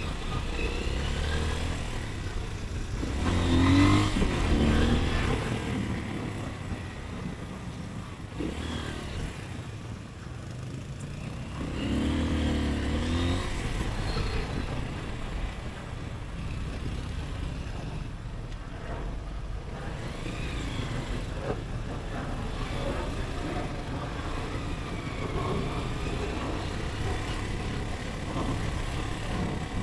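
Motorcycle ride through city traffic: steady engine and road noise, with two louder surges of engine sound about four and twelve seconds in.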